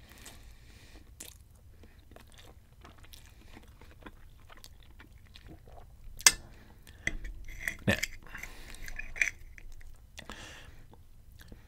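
Close-up chewing of a mouthful of spaghetti Alfredo with sausage. From about six seconds in, a metal fork clinks and scrapes against the plate as more noodles are twirled, with two sharp clinks.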